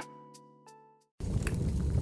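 A piano phrase dies away with a few last soft notes, then after a brief silence a wood fire's crackle cuts in abruptly a little past a second in: a low, steady rush of burning logs with scattered pops and snaps.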